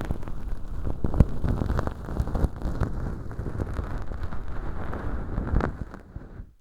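Feather earpick (bonten) rustling and scratching in a mock ear canal packed with velcro fluff and dry fake earwax: a dense crackling rustle that fades out near the end.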